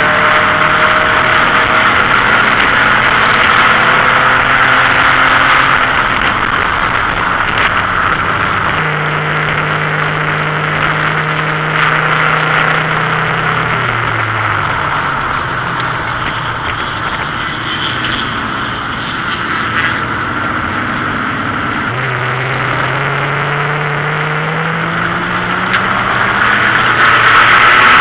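BMW E28 528e race car's 2.7-litre straight-six running hard, heard from inside the stripped, caged cabin. The engine note holds steady, drops as the car slows about halfway through, then climbs steadily as it accelerates near the end.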